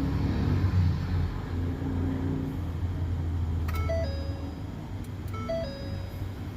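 A steady low hum, then from about halfway a repeating two-note electronic chime, a higher note stepping down to a lower one, sounding about every second and a half. It is the truck's warning chime going off while the scan tool runs the module self-test.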